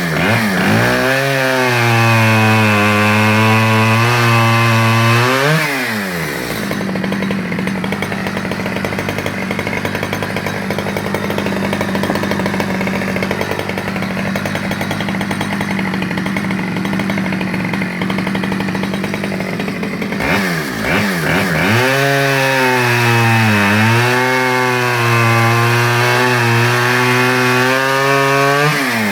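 Stihl 010 AV 37cc two-stroke chainsaw revved up to high throttle for about five seconds, dropping back to a steady idle, then revved hard again with a brief dip before falling back near the end.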